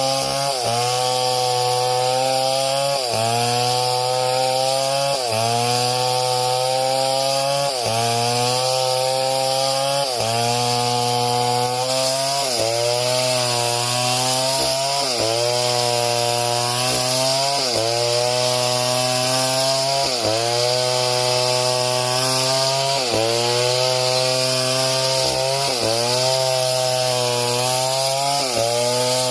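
Chainsaw running at high revs and cutting through wood, its engine pitch dipping briefly and recovering about every two and a half seconds as the chain bites in under load.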